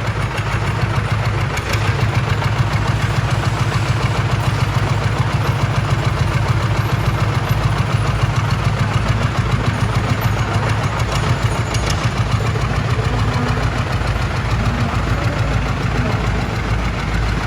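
Antique farm tractor engine running steadily and loud, its low firing beat even.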